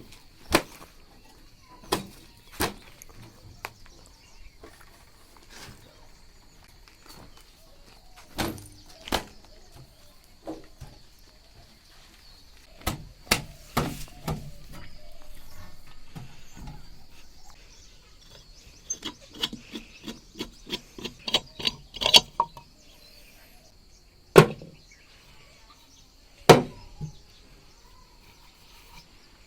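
Irregular sharp knocks and thwacks, spaced a few seconds apart with a quick run of them about two-thirds through, over a faint steady high-pitched whine.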